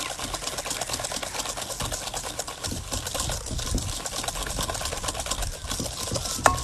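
Whisk beaten fast by hand in a mixing bowl, a dense run of rapid rattling strokes that keeps going without a break.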